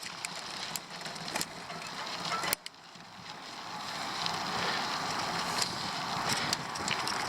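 Bicycle climbing a steep hill: tyres rolling over the surface with scattered clicks from the drivetrain. The noise drops sharply about two and a half seconds in, then builds back up.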